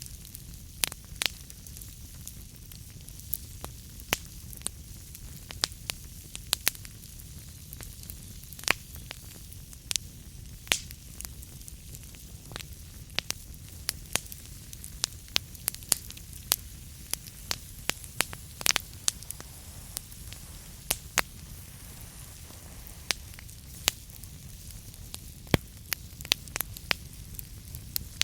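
Wood fire burning in a fireplace: a steady low rumble of the flames with sharp, irregular crackles and pops from the burning logs, several a second.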